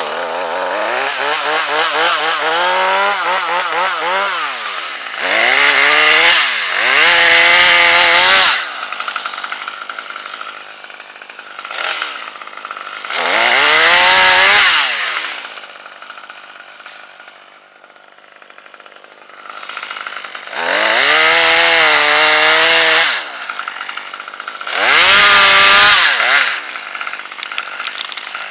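Chainsaw run up to full throttle in five loud bursts of one to two and a half seconds, each likely a cut into red oak wood, dropping back to a lower running speed between them.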